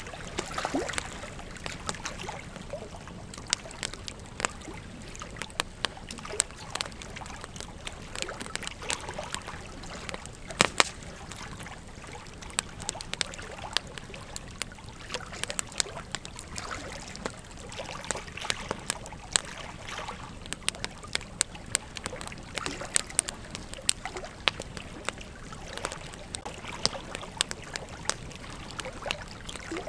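Wood campfire crackling, with irregular sharp pops and snaps over a steady low hiss of burning; the loudest pop comes about ten seconds in.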